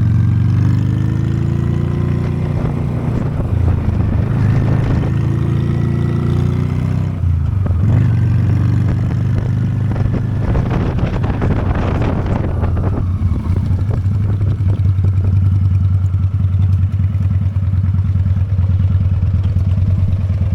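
Honda Steed V-twin motorcycle engine running under way, its pitch rising several times in the first few seconds, then settling into a steady, even idle for the last several seconds.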